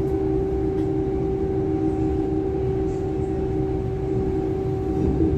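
DB Class 425 electric multiple unit heard from inside the passenger cabin: the steady low rumble of the running train, with a steady electrical hum in two tones over it.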